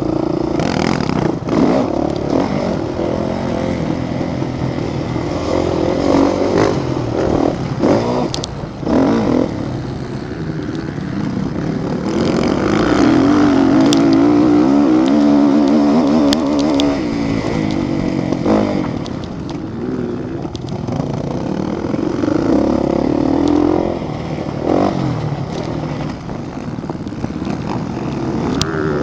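Motocross motorcycle engines racing, revving up and down as the bikes pass. The loudest stretch comes midway, where a bike holds high revs for several seconds.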